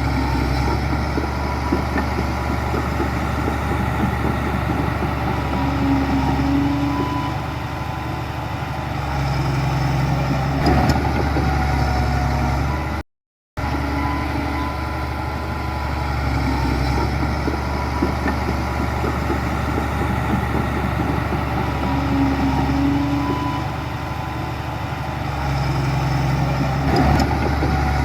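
Heavy diesel earthmoving machinery running steadily with a low engine hum. The sound cuts out for about half a second midway through.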